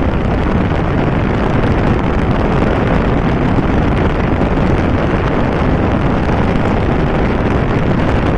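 Steady wind roar buffeting the microphone of a Yamaha YZF-R15 V3 motorcycle running at high speed on a top-speed run.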